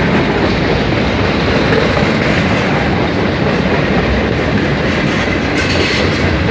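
Norfolk Southern mixed freight train's cars rolling past on the track: a steady, loud rumble of steel wheels on rail.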